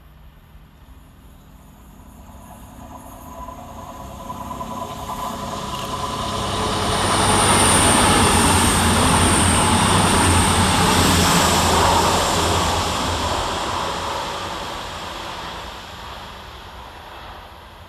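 CrossCountry Class 221 Super Voyager diesel-electric multiple unit passing through the station, its underfloor diesel engines and wheels growing louder as it approaches, loudest from about seven to thirteen seconds in, then fading as it draws away.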